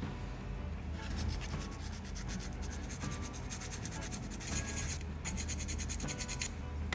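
Fast, evenly repeated scraping strokes, as of filing or sanding a small part by hand. They start about a second in and pause briefly near five seconds.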